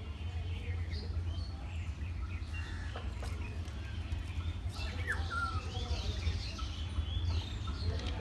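Birds chirping in short calls, one sharp sliding chirp about five seconds in, over a steady low rumble.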